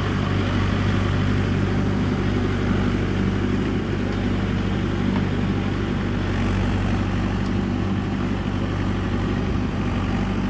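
Mahindra tractor's diesel engine running steadily at an even speed.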